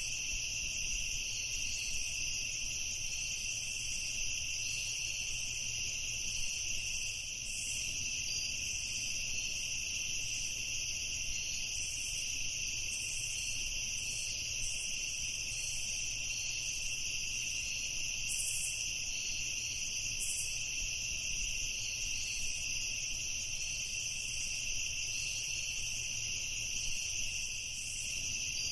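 Dense chorus of night insects: a steady, high-pitched trilling at two pitches that does not let up.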